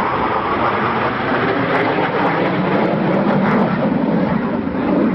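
Jet aircraft engine noise, loud and steady, its low tones growing stronger in the second half.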